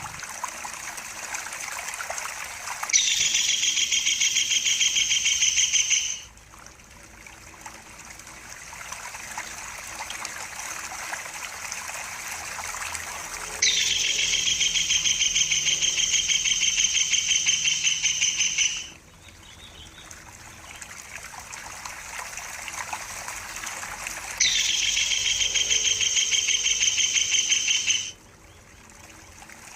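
A bird's rapid, high trilled call, given three times and held steady for about three to five seconds each time, starting and stopping abruptly. Running, trickling water continues underneath.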